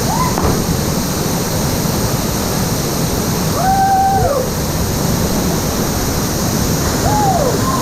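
Waterfall pouring, a loud, steady rush of falling water. Three brief voice-like calls rise over it: near the start, about four seconds in, and near the end.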